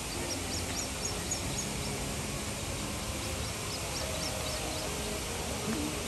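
Birds chirping in two quick runs of short, very high notes over a steady rushing background noise.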